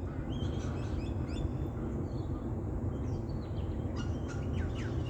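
Several birds chirping: many short, quick calls and falling notes over a steady low rumble.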